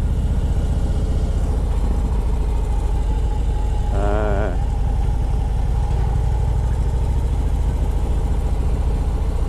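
Harley-Davidson V-twin motorcycle engine running steadily with an even low rumble.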